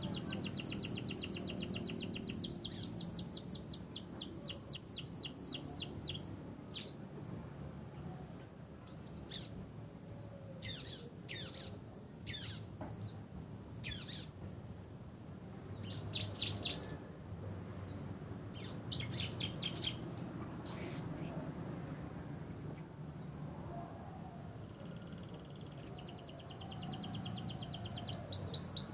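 Domestic canary in full song: fast rolling trills and runs of quick downward-sweeping whistled notes, in phrases with short pauses between them. The song opens and closes with long rapid trills, with scattered single notes and brief trills in the middle.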